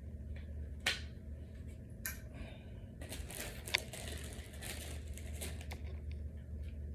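Small furniture-assembly hardware being handled and pushed into the panel holes: a few sharp clicks, with a stretch of crinkly rustling in the middle, over a steady low hum.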